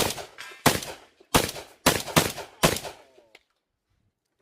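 Shotgun fired six times in quick succession, the shots about half a second apart, the last about two and a half seconds in.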